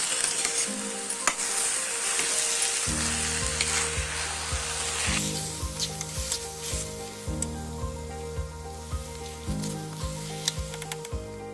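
Grated carrot halwa sizzling in ghee in a steel pan while a ladle stirs and scrapes it, with clicks of the ladle against the pan. The sizzle is strongest in the first half and thins out after about five seconds, and background music with held low notes comes in about three seconds in.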